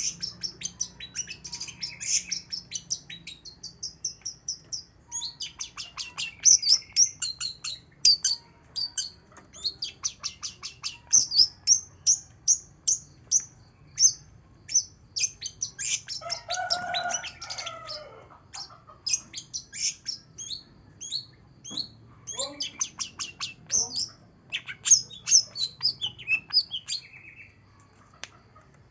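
Long-tailed shrike (cendet) singing a lure song: a fast, continuous run of high chirps and trills, broken about sixteen seconds in by a lower, harsher call lasting a couple of seconds.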